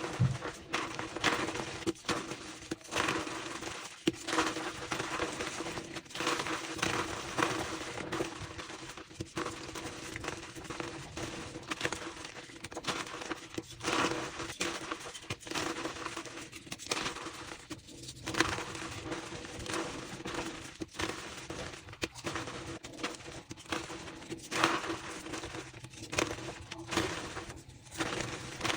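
Blocks of reformed gym chalk crushed and crumbled by hand in quick succession: a continuous run of dry, crunchy crumbles and cracks, sped up.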